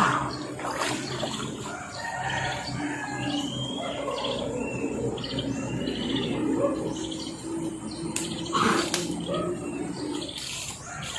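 Small birds chirping in short calls over steady running water, with a short sharp noise about eight and a half seconds in.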